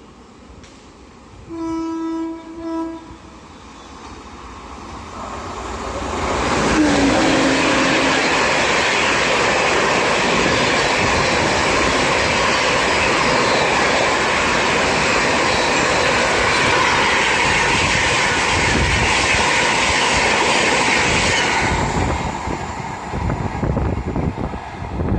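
Train horn sounding two short blasts, then a train approaching and passing at high speed: the rush of the wheels on the rails builds over a few seconds, holds steady and loud for about fifteen seconds, and dies away near the end.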